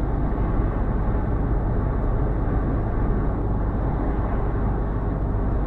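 Steady engine and road rumble inside a moving car, with no distinct events.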